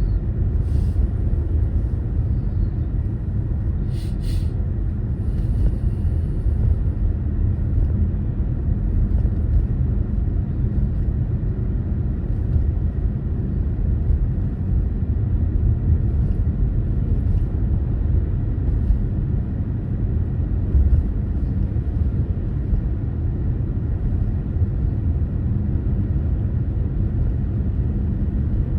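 Steady low rumble of a car being driven: road, tyre and engine noise, with a faint click about four seconds in.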